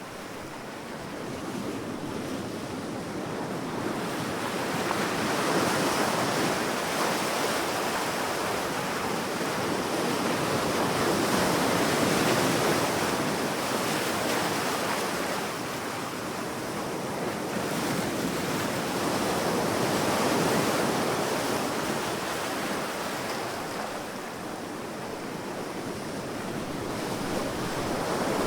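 Sea waves breaking and washing up a sandy beach, rising and falling in slow swells every several seconds, with a steady rush of surf between.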